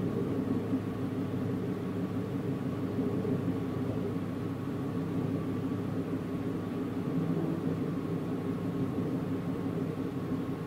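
Steady running noise of a train heard from inside the passenger car: an even low rumble of the wheels on the rails, with a faint constant high tone above it.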